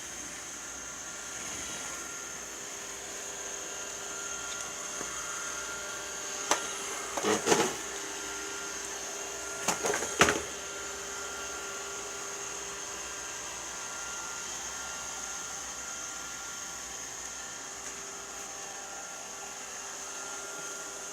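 Robot vacuum cleaner running with a steady whir and high whine, with a few sharp knocks and clatters around the middle.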